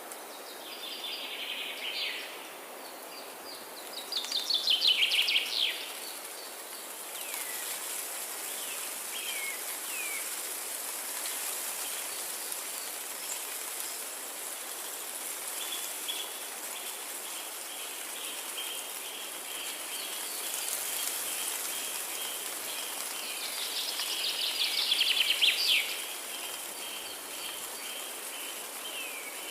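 Songbirds singing over a steady background hiss. There are short bursts of fast, high, falling notes, the loudest about four seconds in and again near the end. A long even series of repeated high notes sets in about halfway through.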